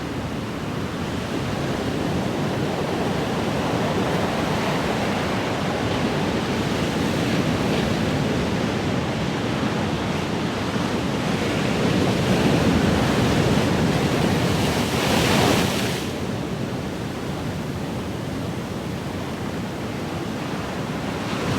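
Ocean waves: a steady rushing surf, with one wave building about halfway through into a louder, hissing wash that drops away suddenly about three-quarters of the way in.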